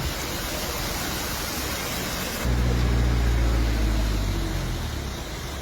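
A steady rushing hiss, then a motor vehicle's low engine rumble that comes in about two and a half seconds in, is loudest for a couple of seconds, and fades away.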